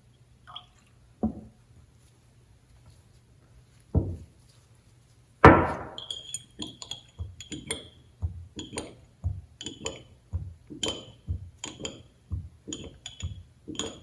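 A few knocks on a tabletop, then a stirrer clinking against the side of a glass container again and again, about one to two ringing clinks a second, as hydrogen-peroxide mouthwash and liquid soap are mixed.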